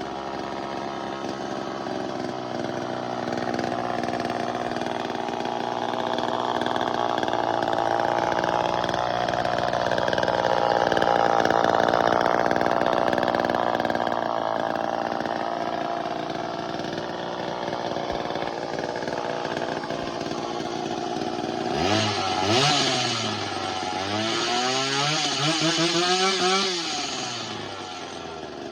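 Early-1970s Craftsman chainsaw, a Poulan-built two-stroke, running as a bare power head after carburettor tuning, brought back to life. It runs steadily, then near the end is revved twice, the first a quick blip and the second held a couple of seconds before dropping back.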